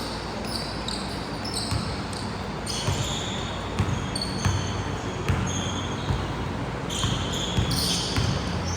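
Basketball game play in a gym: a ball bouncing on the court in repeated thumps, with short high squeaks from sneakers throughout, in a large echoing hall.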